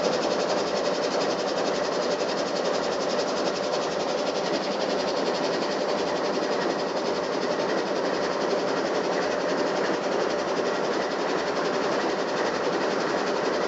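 Canadian Pacific freight train rolling past, a steady rumble of wheels on rails with no horn or bell.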